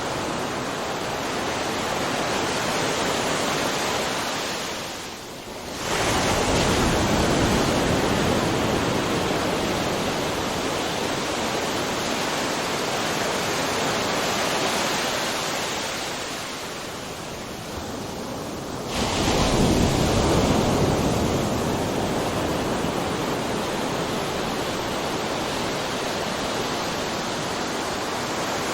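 Ocean surf: a steady rush of breaking waves, with a fresh wave crashing in about six seconds in and another about two-thirds of the way through, each just after a short lull.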